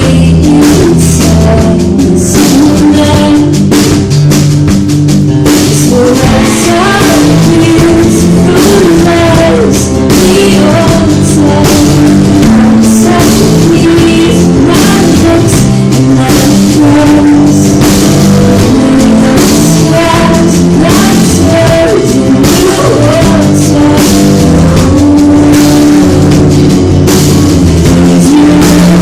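Live band playing a song with drum kit and guitar, loud and close to full level, recorded on a phone with poor quality.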